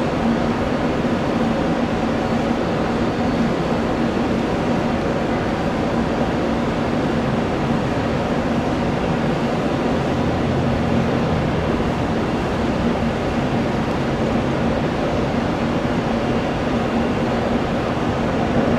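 Steady jet engine noise: an even rumble with a constant low hum that neither rises nor falls.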